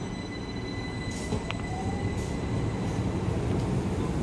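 Keihan 800 series electric train moving off along the platform, its low running rumble growing louder as it gathers speed, with a faint rising motor whine about a second in.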